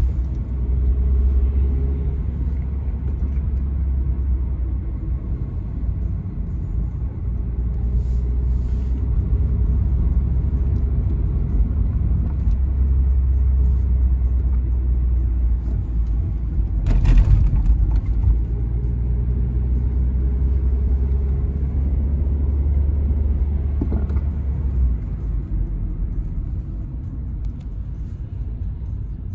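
A 1995 Toyota Carina E with its 1.6-litre 16-valve four-cylinder engine on the move, heard from inside the car as a steady low rumble of engine and road noise. There is one sharp thump a little past halfway, and the deep drone fades away about four seconds before the end.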